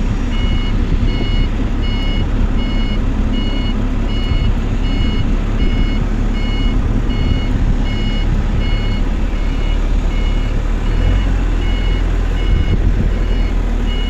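Reversing alarm beeping steadily and evenly on an aircraft tow tractor as it moves, over the tractor's engine running low.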